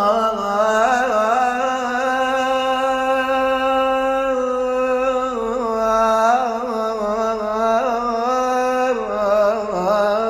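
A man singing unaccompanied in Iraqi style, holding long drawn-out notes with quivering ornaments; about nine seconds in he drops to a lower note and starts a new phrase.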